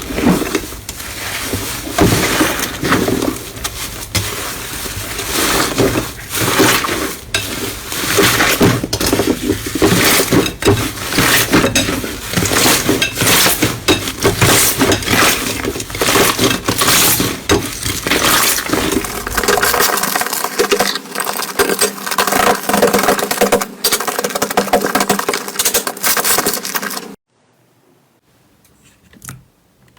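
Slime being squeezed and pressed by hand, a loud dense run of crackling and popping clicks that stops abruptly near the end, leaving a few faint clicks.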